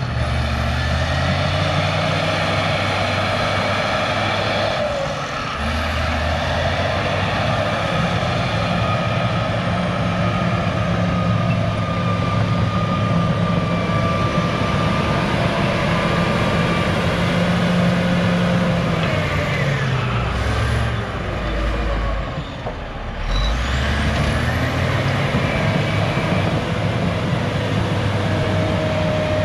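Cat D6H crawler bulldozer's diesel engine working under load, its pitch rising and falling as the dozer pushes and backs up, with a faint high squeal from the tracks. The engine eases off briefly about two-thirds of the way in, then pulls again.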